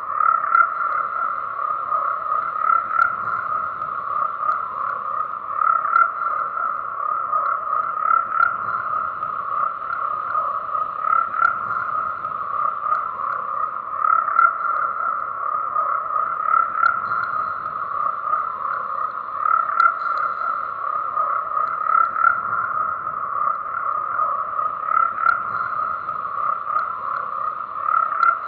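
A chorus of frogs croaking continuously, with a louder call standing out every two to three seconds.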